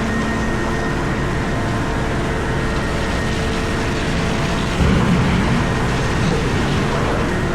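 Komatsu PC4000 mining excavator running steadily, heard from inside its cab, with a sudden louder low surge or thump about five seconds in.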